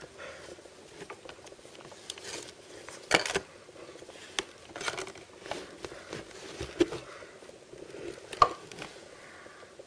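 Hands opening toy blind-box packaging: crinkling and rustling between several sharp taps, the loudest about three seconds in and another near the end.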